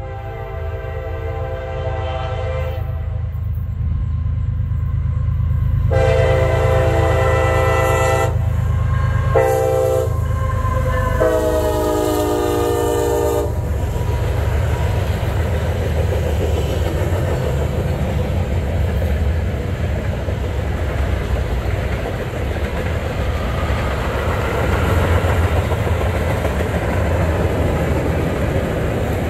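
A CSX freight train's diesel locomotive sounds its multi-chime air horn in the long, long, short, long pattern of a grade-crossing warning, and the pitch drops during the last blast. The locomotive and its freight cars then run past with a steady rumble and the clatter of the wheels.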